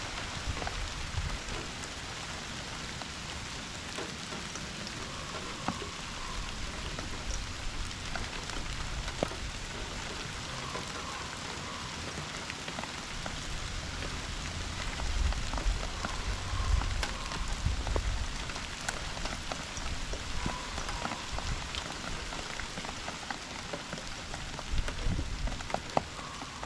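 Steady fall rain falling on surfaces: an even hiss with many separate drops pattering through it. Low rumbles swell up now and then, loudest a little past the middle and again near the end.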